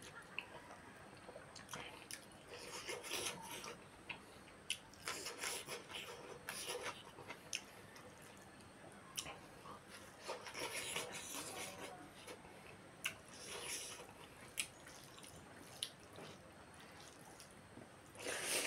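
Wet chewing and lip-smacking of a person eating rice and chicken by hand, with irregular sharp clicks and the rustle of fingers scooping rice on a banana leaf.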